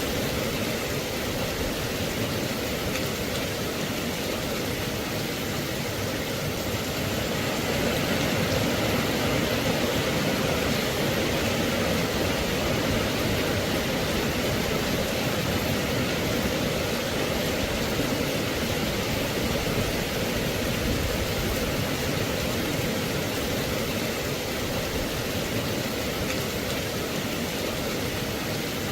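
Steady rain: an even, unchanging hiss with no distinct drops or thunder.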